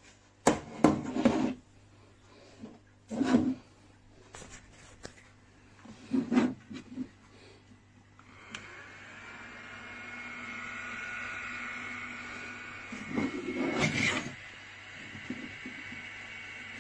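Handling knocks and rustles of a bladeless portable neck fan. About halfway through, a click is followed by the fan's small motor starting: a steady whir with a high whine. Another loud handling knock comes near the end.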